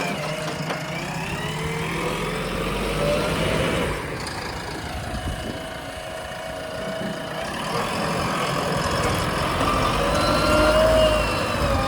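Diesel engine of a JCB 3DX backhoe loader at work, its pitch rising and falling over a few seconds at a time as it revs under hydraulic load.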